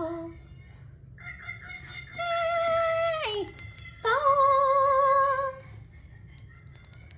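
Pet parrot making long, wavering, whistle-like notes, two full ones of a second or two each, the first sliding down in pitch at its end. A few faint clicks near the end.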